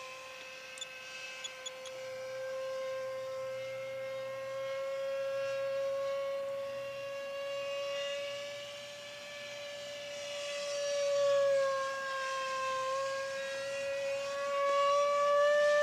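Whine of a 64 mm electric ducted-fan (impeller) RC model jet running. The whine is steady and drifts slightly in pitch. It swells in loudness about two thirds of the way in and again near the end.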